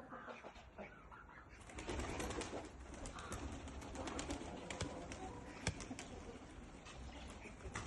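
Domestic pigeons cooing, with scattered clicks and one sharp knock a little past the middle.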